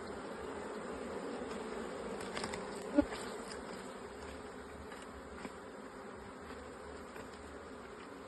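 Honeybees buzzing steadily in a continuous hum around an opened hive. A single sharp knock sounds about three seconds in.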